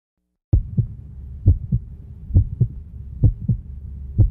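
Heartbeat sound effect: a deep double thump, lub-dub, repeating a little under once a second over a low steady hum. It starts about half a second in, with about five beats in all.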